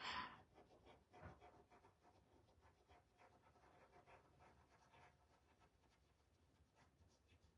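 Near silence with faint, irregular light strokes: a stencil brush dabbing and rubbing paint through a stencil.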